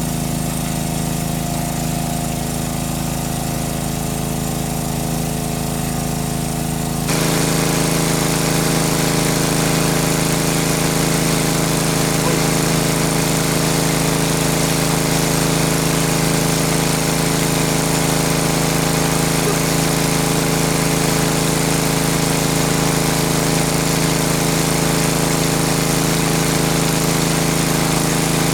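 A small engine running steadily. About seven seconds in, the sound shifts abruptly and becomes louder, with more hiss.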